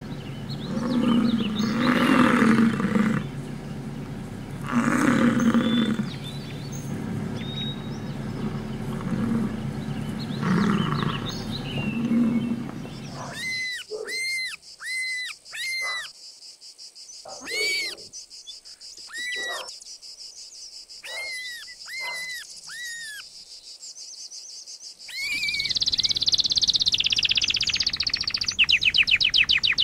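A bison bellowing in low, drawn-out calls, loudest about a second, five seconds and ten seconds in. Then a hare squealing in short, high squeals, mostly in quick runs of three or four. About 25 seconds in, a canary starts singing in fast trills.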